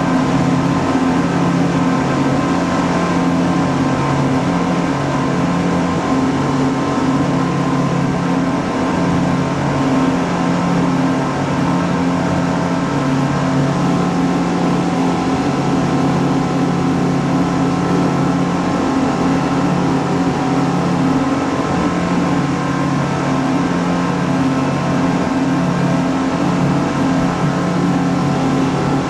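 A boat engine running steadily at a constant pace, a loud, even drone with no breaks.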